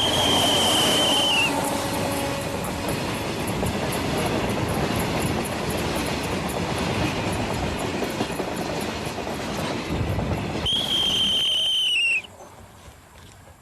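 A train running past with a steady rumble, its horn sounding twice: one blast of about a second and a half at the start and another near the end. The rumble cuts off suddenly just after the second blast.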